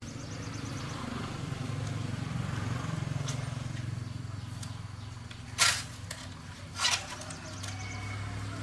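An engine running steadily with a low, rapidly pulsing rumble, and two loud sharp knocks a little over a second apart about two-thirds of the way through.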